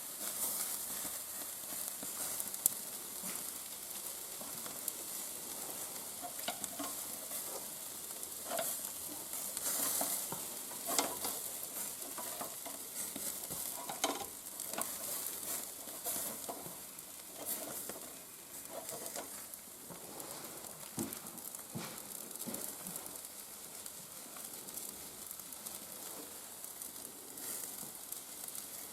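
Shashlik meat on skewers sizzling over a fireplace fire: a steady high hiss with frequent sharp crackles and pops.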